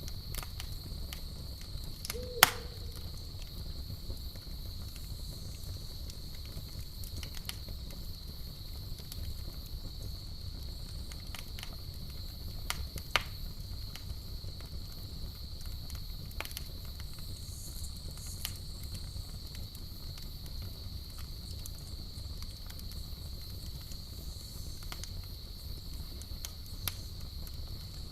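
Campfire crackling with scattered sharp pops, the loudest about two seconds in, over a low rumble of the burning fire. Crickets chirr steadily at a high pitch, and an owl hoots once near the start.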